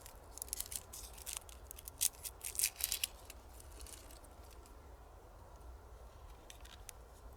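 Crisp crackling and clicking, a quick run of sharp snaps in the first three seconds, then only faint rustle.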